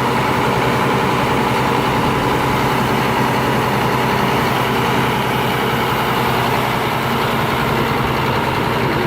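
Old Mack dump truck's diesel engine idling steadily, a loud even low rumble.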